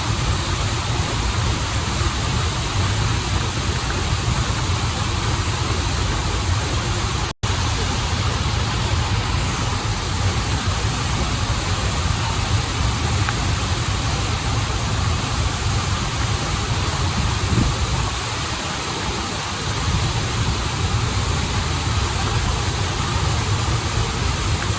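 Waterfall and flowing river water rushing steadily, with a deep rumble under the hiss. The sound cuts out for an instant about seven seconds in.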